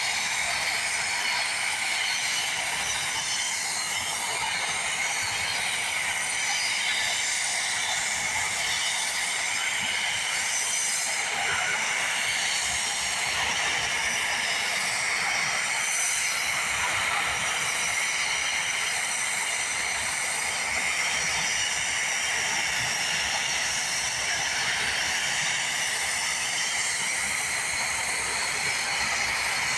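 Komatsu D85SS bulldozer's diesel engine and machinery running steadily, heard as an even hissing rush with little low rumble.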